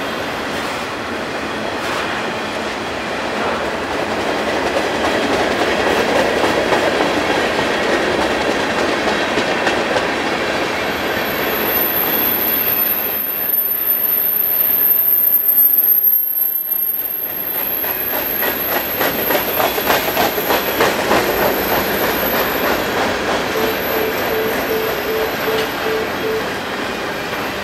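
Freight train passing: autorack and covered hopper cars rolling by, their wheels clicking over the rail joints. About eleven seconds in, a high steady wheel squeal starts and holds for roughly ten seconds, fading out near the end.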